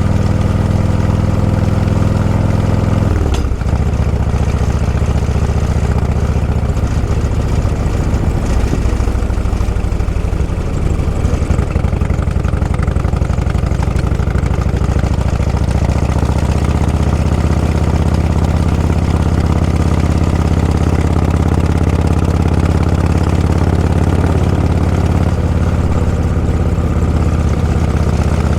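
Motorcycle engine running steadily at low road speed, with a brief break and change in engine note about three seconds in.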